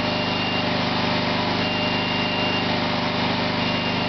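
Small engine running steadily at constant speed, with a faint high beep about a second long sounding roughly every two seconds.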